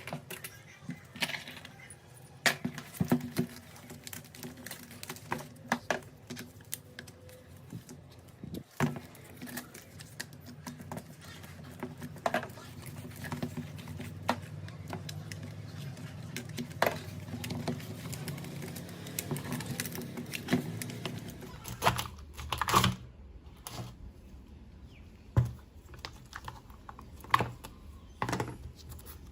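Irregular clicks, taps and knocks of hand tools and small parts being handled while an old Bosch GBH 2-22E rotary hammer drill is worked on, over a low steady hum that stops about three-quarters of the way through.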